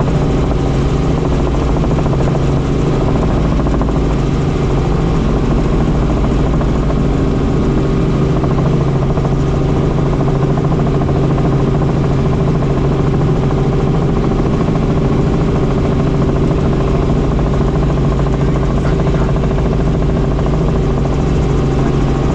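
Helicopter in flight: loud, steady rotor and turbine noise with a constant low hum that does not change.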